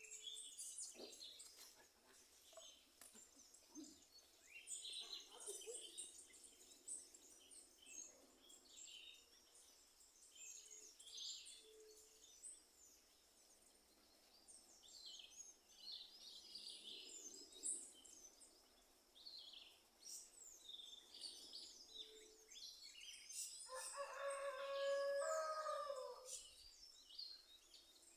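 Many small birds chirping and singing in short high notes throughout. About three-quarters of the way in, a rooster crows once for about two seconds, the loudest sound.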